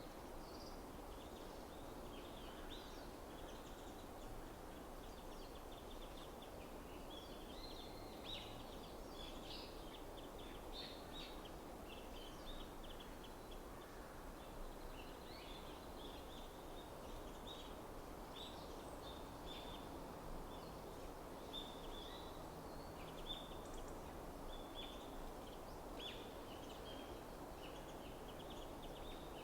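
Small forest birds chirping: many short, high calls scattered throughout, over a steady low background hiss.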